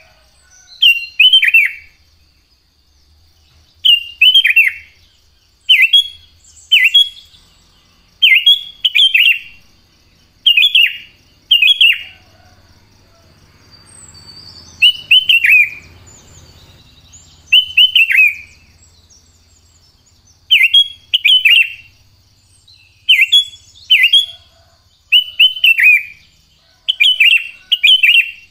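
Sooty-headed bulbul (cucak kutilang) singing: short, clear, downward-slurred notes in quick groups of two or three, repeated every second or two.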